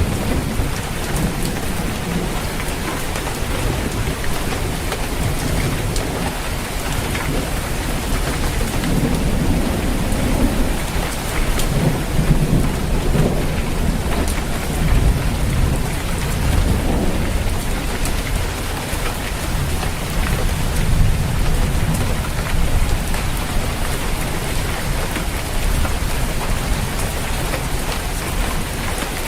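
Steady heavy rain drumming on a roof, with rolling thunder rumbling low and building through the middle before easing off.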